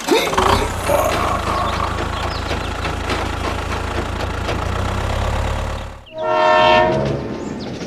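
Dense, steady rumbling noise for about six seconds, ending abruptly in one short blast of a horn-like steady tone lasting under a second.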